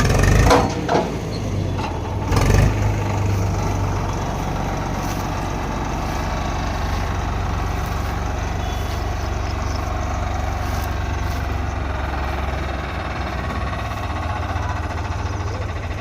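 Heavy diesel engine running steadily, with two or three loud thumps in the first three seconds.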